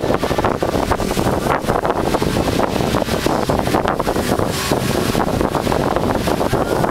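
Wind buffeting the microphone aboard a sailing ship: a loud, steady rush of air with constant gusty flutter over a low rumble.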